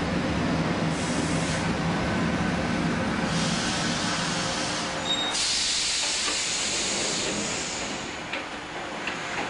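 Shin-Keisei 200 series electric train with nose-suspended traction motors coming to a stop: the low hum of motors and gears fades out about three seconds in. About five seconds in there is a brief squeal, then a loud hiss of air from the brakes lasting a couple of seconds, and two short clicks near the end.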